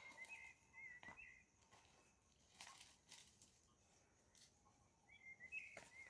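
Faint birdsong over near silence: a short warbling phrase at the start and another about five seconds in, with a few soft clicks.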